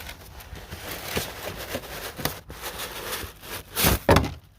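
Irregular rubbing, clicks and knocks of things being handled and moved, with two heavier thumps about four seconds in, after which it goes much quieter.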